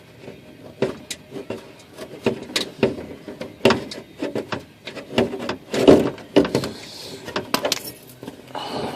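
Plastic engine under-cover being handled and shifted under a car: an irregular run of clicks, knocks and scraping, a little louder about six seconds in.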